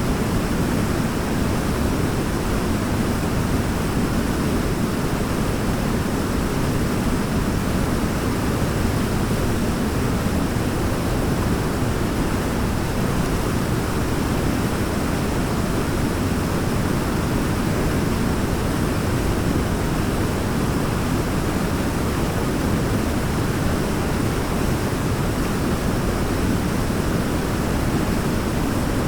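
Waterfall: a steady, even rush of falling water, heaviest in the low range, without breaks or changes.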